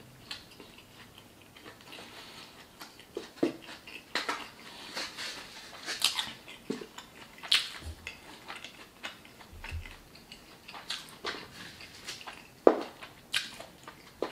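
Close-miked chewing of a mouthful of burrito with open-mouthed wet lip smacks, irregular clicks and smacks with one louder smack near the end.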